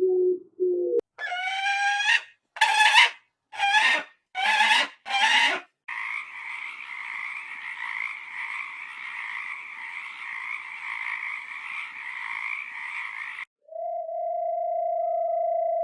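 A series of animal calls: low repeated calls at the start, then five separate pitched calls about a second apart, then a long steady chorus of calls. Near the end this gives way to a single steady tone.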